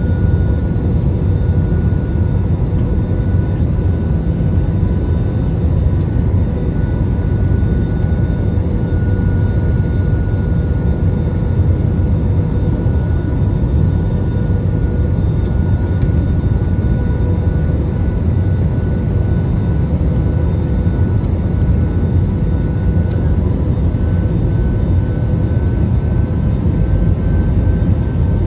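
Steady jet airliner cabin noise in flight: a deep, even rush of engines and airflow with faint steady whining tones, one of which rises slightly in pitch near the end.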